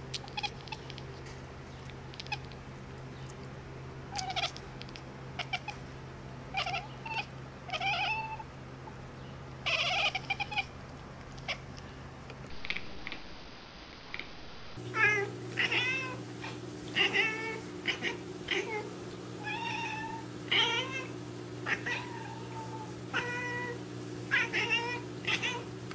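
Cats meowing in many short calls over a steady low hum. The sound changes abruptly about 13 seconds in, and the meows come more often after that.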